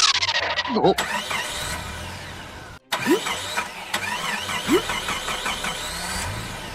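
Vehicle engine starting and running, opening with a sharp falling whistle, with short rising squeaks over it. The sound cuts out briefly about three seconds in.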